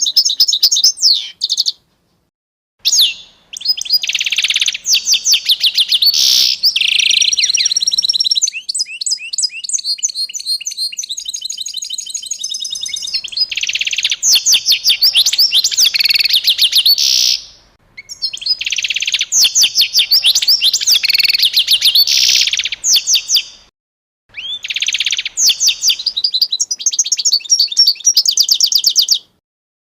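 A songbird singing long, fast phrases of high chirps and trills, broken by short silences between phrases.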